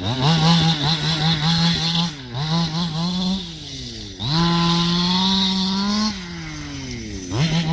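Small engine of a radio-controlled car revving in repeated throttle bursts. The pitch jumps up, holds for one to two seconds, then falls away, about four times.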